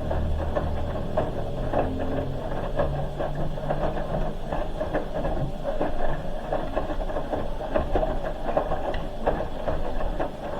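Hoover H-Wash 300 Plus front-loading washing machine mid wash, its drum tumbling the load with irregular sloshing and soft knocks over a low motor hum; the hum weakens about three seconds in.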